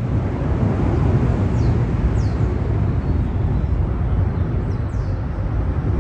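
1997 Honda CR250 two-stroke single-cylinder dirt bike being ridden, its engine running under a steady, heavy wind rumble on the microphone.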